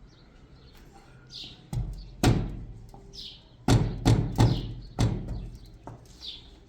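A series of about seven heavy knocks, unevenly spaced, with small birds chirping between them.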